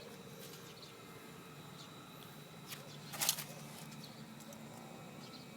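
Faint steady background hum with a short burst of clicks about three seconds in.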